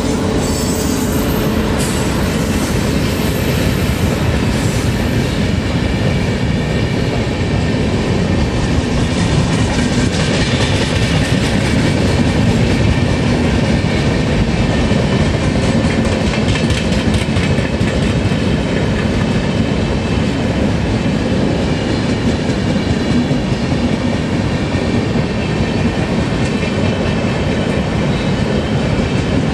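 Express train of LHB passenger coaches running past at speed: a steady, loud rumble of steel wheels on rail with a rhythmic clickety-clack over the rail joints.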